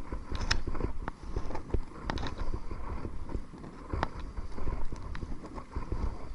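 Kayak paddling: irregular sharp knocks and clicks of the paddle against the hull and water, over a low rumble of wind on the microphone.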